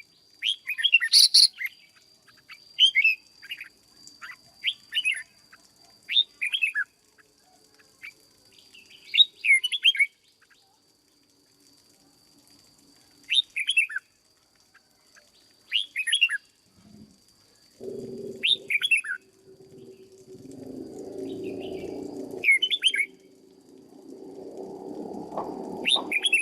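Red-whiskered bulbul calling in short, bright chirping phrases repeated every second or two. A faint steady high whine runs beneath them, and from a little past halfway a lower, rougher rumbling noise with a hum in it comes and goes, louder near the end.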